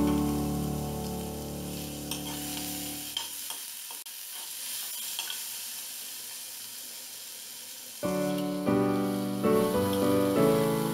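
Tapioca pieces sizzling as they fry in a pan, with a few clicks of a steel spoon against the pan. Piano background music fades out about three seconds in and comes back suddenly near the end.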